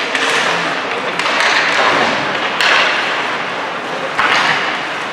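Ice hockey game noise in a rink: swells of scraping, hiss-like noise, with a sharp knock about two and a half seconds in.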